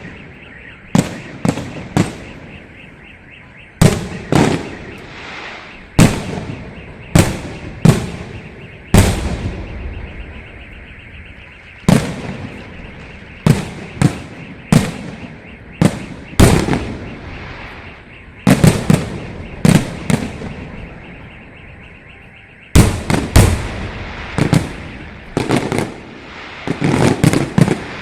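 Fireworks salute: aerial shells bursting in sharp bangs at irregular intervals, sometimes two or three in quick succession, each trailing off in echo.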